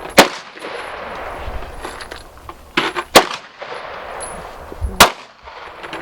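Handgun shots: three loud single shots, about three and then two seconds apart, with a few fainter bangs between them.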